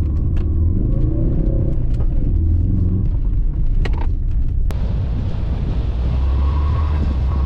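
Ford Focus RS engine revving up and down as the car is driven hard on a dirt course, with scattered clicks. About halfway through, a steady hiss of tyres on loose gravel joins.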